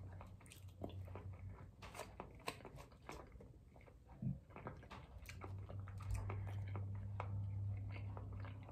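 A person eating: faint chewing and small wet mouth clicks, scattered irregularly, over a low steady hum that grows louder about five seconds in.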